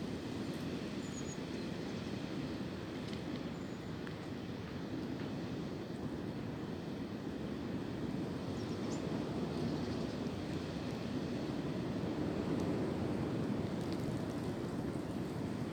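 Wind blowing through tree branches: a steady, low rushing noise that swells a little in the second half.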